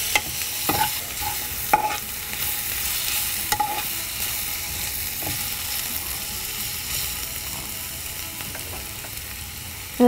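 Onions and ginger-garlic paste frying in hot oil in a nonstick kadai: a steady sizzle, with a steel slotted spoon scraping and tapping against the pan a few times in the first four seconds as it is stirred. The sizzle eases off slightly toward the end.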